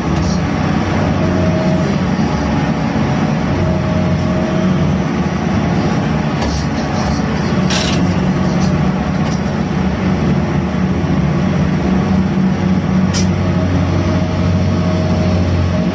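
Heavy engine and machinery of a gut ship's grab crane running steadily during cargo handling, with a few sharp knocks about six and a half, eight and thirteen seconds in.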